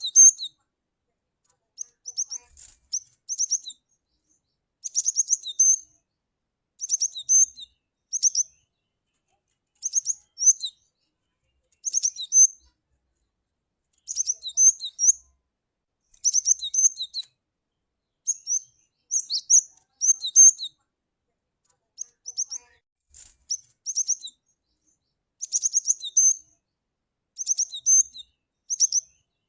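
Cinereous tit (glatik batu) calling over and over: short clusters of sharp, high notes, repeated every second or two with silent gaps between.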